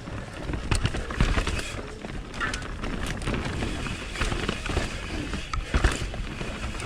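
Mountain bike riding down a dirt singletrack: the tyres running over dirt, with frequent knocks and rattles from the bike over bumps.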